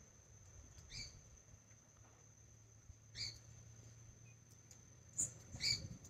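A bird gives short, high, squeaky chirps: single chirps about a second and three seconds in, then two close together near the end. Under them runs a faint, steady high-pitched whine.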